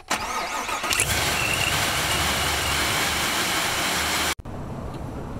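Engine fitted with a centrifugal supercharger starting up: it catches about a second in, then runs loudly with a steady high whine. The sound cuts off abruptly after about four seconds, leaving a quieter steady background noise.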